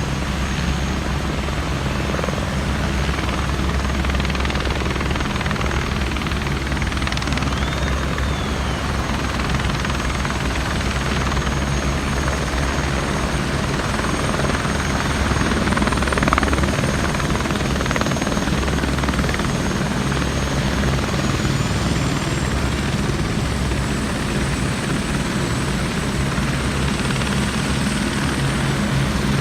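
Helicopter in flight: a steady, unbroken drone of rotor and engine, with a faint high whine above it.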